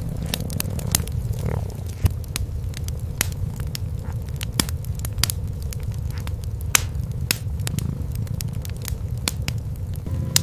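Wood fire crackling with many sharp, irregular pops, over a steady low purring of cats.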